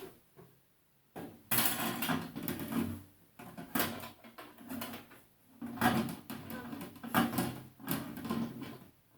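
Handling noises: irregular rustling and light knocks as a new microwave oven and its packaging are moved about and inspected.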